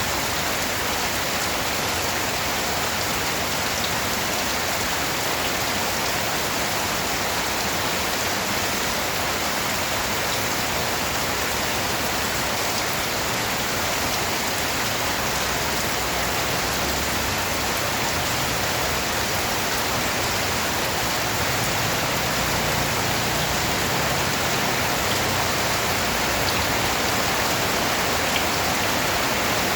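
Steady rain falling on a surface, an even hiss of many drops with no breaks or single loud events.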